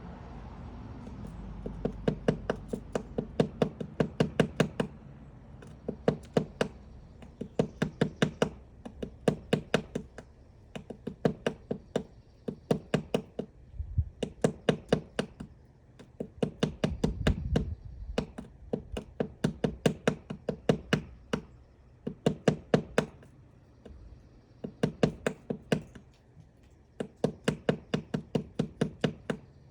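Woodpecker pecking into wood to excavate its nest cavity: bouts of rapid, sharp knocks lasting a second or two, with short pauses between bouts.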